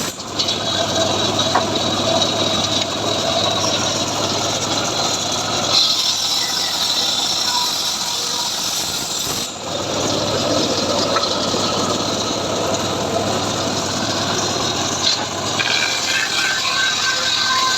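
Homemade engine-driven sawmill running steadily as it cuts sengon wood, with a short break about halfway through.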